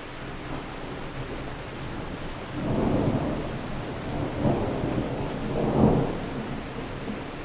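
Steady rain with a rumble of thunder that starts about two and a half seconds in, swells three times and eases off near the end.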